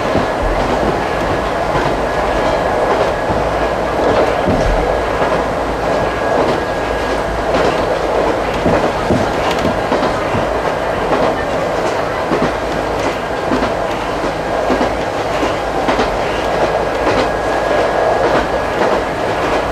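Ichibata Electric Railway 2100 series electric train running at speed, heard from inside the carriage: a steady rumble of wheels on rail, with frequent clickety-clack over the rail joints and a faint, thin, steady high whine.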